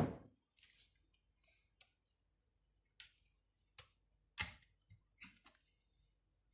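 Small tools and parts being handled on a workbench during a motor repair: scattered clicks and light knocks, with a sharp knock at the start and another about four and a half seconds in.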